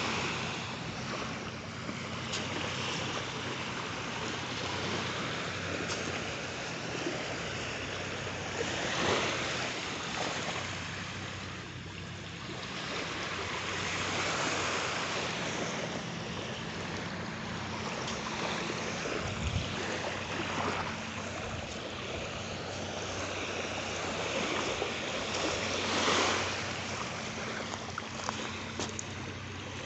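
Waves washing on a beach, a steady rushing that swells louder a few times as breakers come in, with some wind on the microphone. A faint steady low hum lies underneath.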